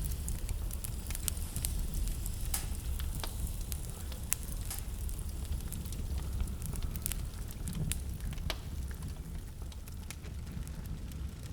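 Wood fire crackling in a fireplace, with sharp pops at irregular intervals over a steady low rumble of blizzard wind.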